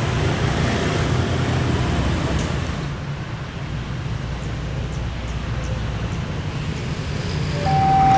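Low, steady rumble of a heavy diesel engine with a noisy haze over it, easing off a little about three seconds in.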